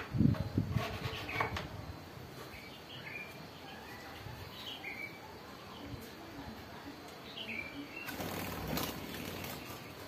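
Birds chirping in short notes every couple of seconds, with knocking from bird cages being handled in the first second or so and a flurry of wing flapping about eight seconds in.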